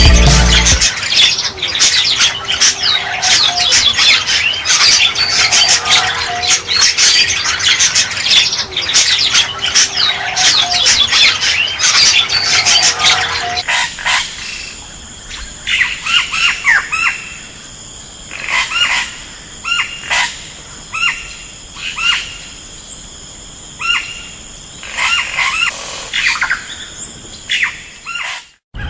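Rats squeaking: for about the first half, a dense run of rapid, overlapping high squeaks. Then sparser single squeaks, a second or so apart, over a faint steady high hiss.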